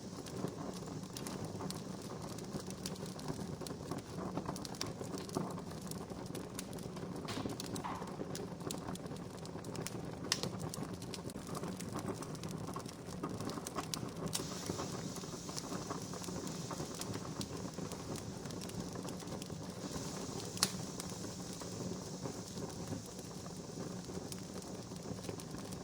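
Wood fire crackling steadily, with many small snaps and a few sharper pops, the loudest about ten seconds in and again near twenty seconds in.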